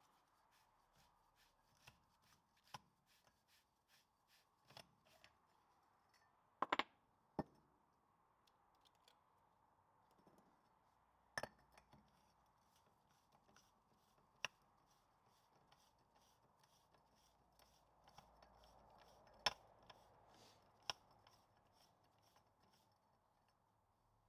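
Sparse sharp metallic clicks and light knocks of hand tools and steel hub parts being handled, with quiet stretches between them.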